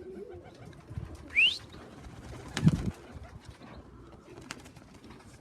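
Young racing pigeons cooing softly around the loft. About a second and a half in comes a short rising whistle, and just after it a sharp thump, the loudest sound.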